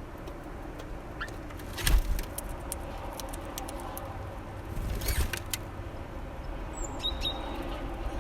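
Low steady rumble of road traffic, with scattered sharp clicks and two louder bursts about two and five seconds in. A brief high bird call comes about seven seconds in.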